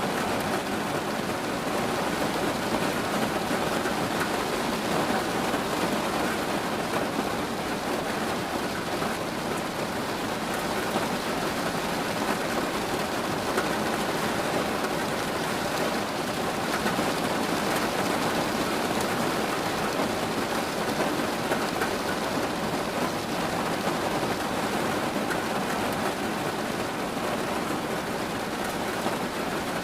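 Steady rain falling, an even unbroken hiss with no single drops or rumbles standing out.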